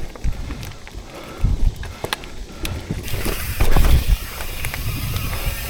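Mountain bike riding over a dirt trail: wind buffets the microphone and the bike knocks and rattles over bumps. A steady hiss comes in about three seconds in.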